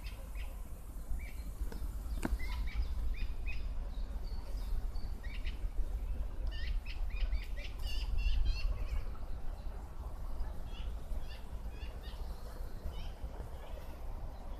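Small songbirds chirping and singing in short, high, repeated notes, over a steady low rumble. A single click sounds about two seconds in.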